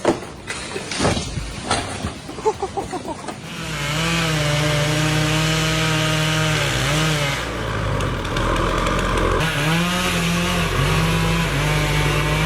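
A few seconds of scattered knocks and clatter, then a chainsaw running at high revs, its pitch dipping and recovering repeatedly as it bogs into wood and speeds back up.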